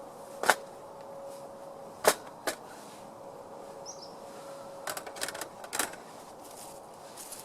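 Split firewood pieces knocking as they are laid as the fire bed in a stainless steel folding firepit grill: single sharp knocks about half a second and two seconds in, then a quick rattle of several knocks about five seconds in.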